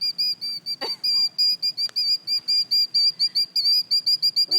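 Killdeer giving a rapid, steady string of shrill alarm notes, about five a second, all at one high pitch: the scolding of a parent bird defending its nest of eggs.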